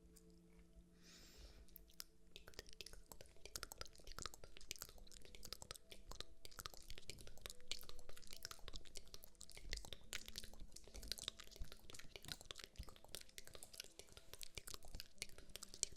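Dense, close-miked crackling and clicking, a fast irregular run of tiny sharp ticks that starts about two seconds in.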